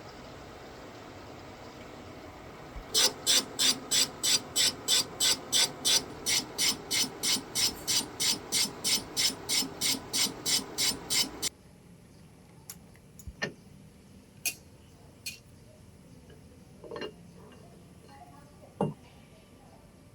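A lathe running with a steady hum, then a loud, even rhythm of sharp scraping strikes, about three a second, as the tool meets the turning crankshaft once per revolution in an interrupted cut. The strikes stop suddenly about halfway through, leaving a few scattered clicks.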